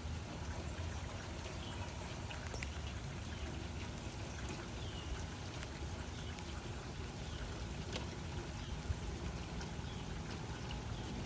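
Steady rain falling, with scattered individual drops ticking over an even hiss and a low rumble underneath; one sharper drop about three-quarters of the way through.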